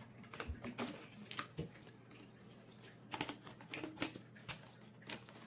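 Light, irregular plastic clicks and taps from a Bissell CleanView Compact upright vacuum's parts being handled as its top section is pulled off and refitted.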